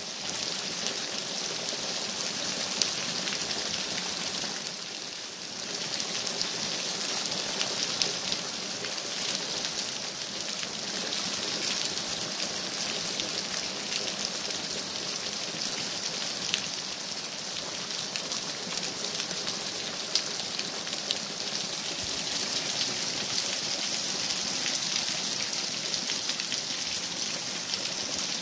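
Heavy rain pouring onto a wet paved yard and its puddles: a steady hiss with scattered sharp drop splashes, easing briefly about five seconds in.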